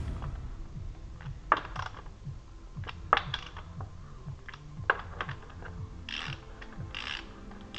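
Hand tools working on a car engine during a timing belt and water pump job: sharp metal clinks and knocks. Near the end come short rasping bursts about a second apart, like a ratchet wrench being worked.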